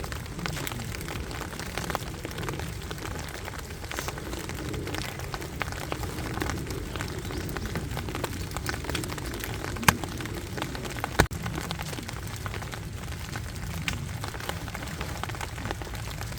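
Rain pattering on a tent, many small irregular drops over a steady low rush, with two louder single taps about two-thirds of the way in.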